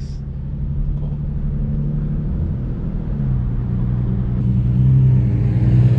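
Infiniti G37 Coupe's 3.7-litre VQ V6 running through a full titanium Tomei exhaust, a steady low drone; about halfway through the revs rise gently and it grows louder.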